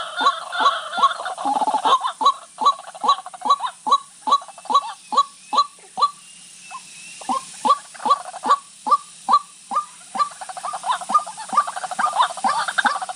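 White-breasted waterhen calling: a fast, even series of short, repeated notes, about two or three a second, that breaks off briefly about six seconds in and then resumes.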